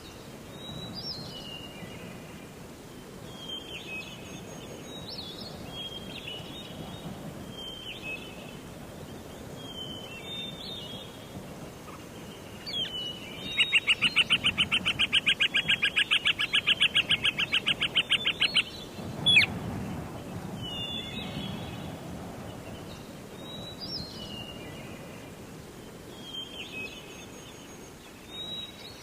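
Wild birds singing in a forest: short chirping phrases repeated every second or two, and midway one loud, rapid trill lasting about five seconds that ends in a quick falling note, over a steady low background rush.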